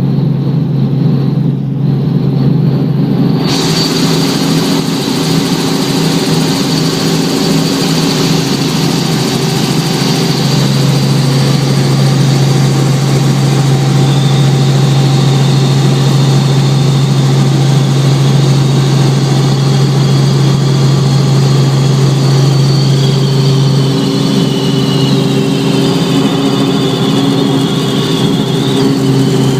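Helicopter running steadily as it comes in to land: a loud, steady low drone from the rotor and engine with a thin high whine above it. A rushing noise joins about three seconds in, and the whine wavers near the end.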